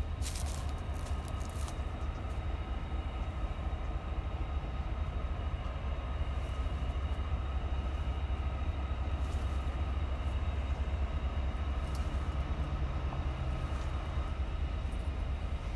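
CSX maintenance-of-way freight train of empty flatcars, with its ex-Conrail diesel locomotives, making a steady low rumble. A few clicks come in the first two seconds.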